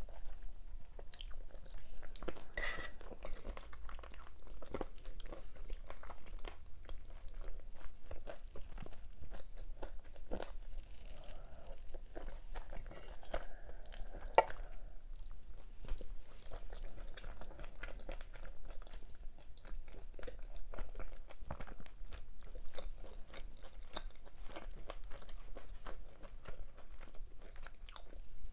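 Close-miked eating sounds: a person chewing and biting pasta and cheese-topped buns, with irregular wet smacks, crunches and small clicks, one sharper click about halfway through.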